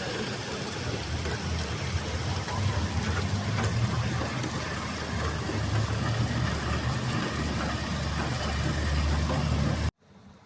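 A motor vehicle engine running steadily, a low hum over outdoor noise, cutting off suddenly near the end.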